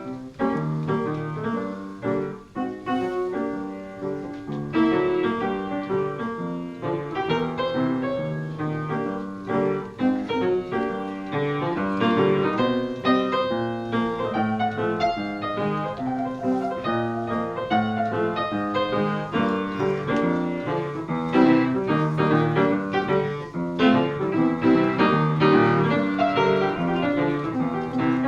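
Solo piano playing, a steady stream of notes with chords held underneath.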